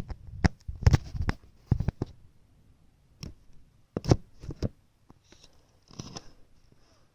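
An irregular run of sharp clicks and knocks, some much louder than others, bunched in the first two seconds and again around four seconds in, then fainter towards the end.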